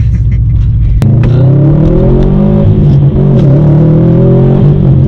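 Subaru STI's turbocharged flat-four engine accelerating, heard from inside the cabin: the engine note climbs in pitch, dips briefly about three seconds in, then climbs again.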